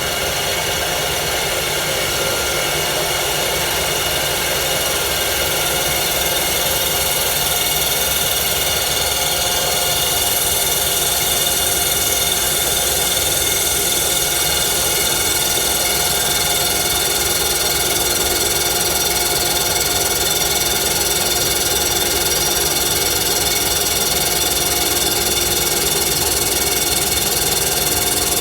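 Rottler F10XS CNC boring machine with its spindle running, boring a small-block Chevy cylinder bore with a stub cutter head. It is a steady machine whine with several steady tones, and it holds level throughout.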